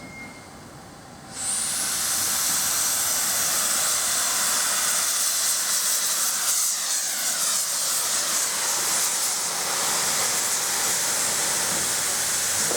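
Madrid Metro Series 6000 train running past, a loud steady hiss that starts suddenly about a second and a half in, with a few falling whines near the middle.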